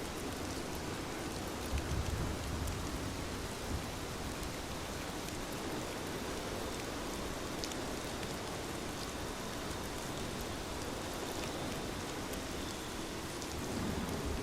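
Steady rain falling on a window, an even hiss with faint scattered ticks, and a brief low rumble about two seconds in.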